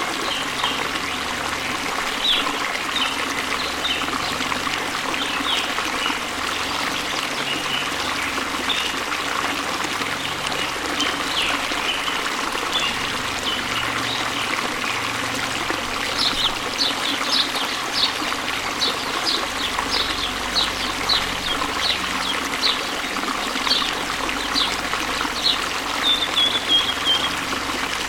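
Waterfall: a steady rush of falling water, with short high chirps over it that come more often in the second half, one ending in a short gliding whistle near the end.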